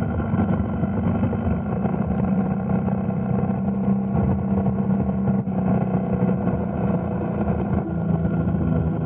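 Motorcycle engine running steadily under way, its pitch dropping slightly near the end.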